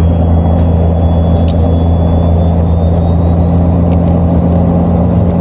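Steady low drone of a truck heard from inside the cab, with a faint high whine slowly rising in pitch and a few light clicks.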